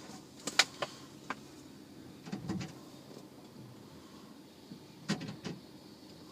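Several sharp clicks in the first second and a half, a dull thump about two and a half seconds in, and another short cluster of clicks and a thump a little after five seconds, over a low steady background.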